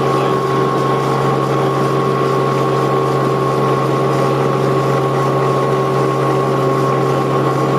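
Helicopter cabin noise in flight: a steady engine and rotor drone with a constant high whine over it.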